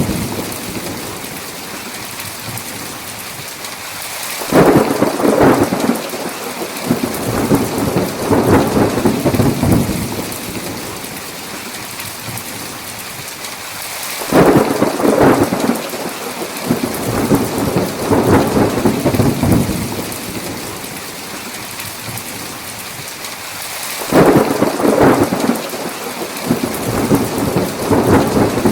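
Thunderstorm: steady heavy rain, with three rolls of thunder about ten seconds apart. Each roll starts suddenly and rumbles on for around five seconds before fading back into the rain.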